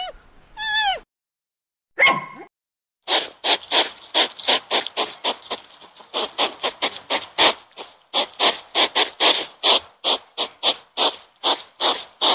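Meerkats calling: a fast run of short, raspy calls, about three a second, starting a few seconds in. In the first second an animal gives a short pitched call.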